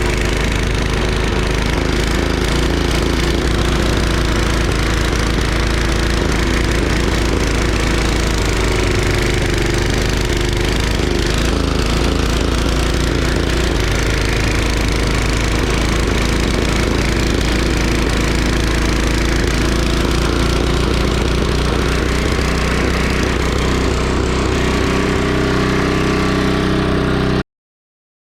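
Craftsman 5 hp single-cylinder snowblower engine running steadily. It cuts off suddenly near the end.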